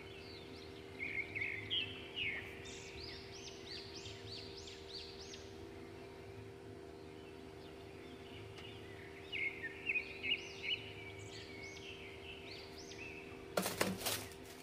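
Birds chirping in two bursts of quick, high rising-and-falling calls over a steady low hum. A short crackling rustle of tissue paper comes near the end.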